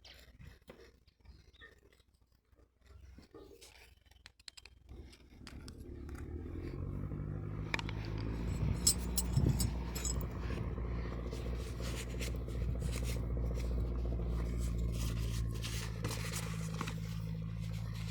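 Light metallic clicks and scrapes, then about five seconds in an engine comes up and runs steadily with a low hum, with more clicks and scrapes over it.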